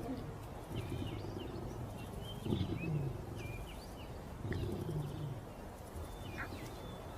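A lion's roaring bout trailing off into deep grunts, two of them about two seconds apart, each falling in pitch. Small birds chirp throughout.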